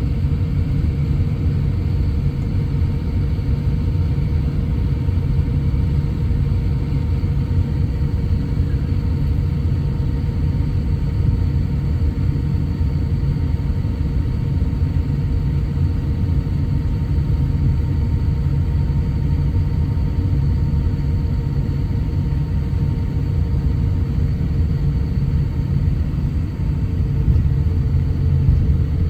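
Steady low engine rumble with faint, unchanging whining tones above it, holding the same pitch and level throughout.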